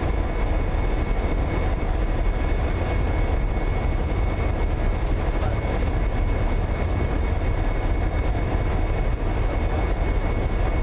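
Diesel freight locomotives running steadily, with a heavy, unchanging low rumble and a few faint steady whines above it.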